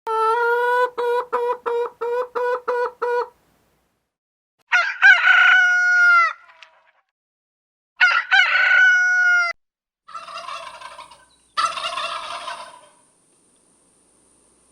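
Domestic fowl calling: a fast run of about eight loud pitched calls, then two longer drawn-out calls, and a fainter, rougher pair of calls near the end.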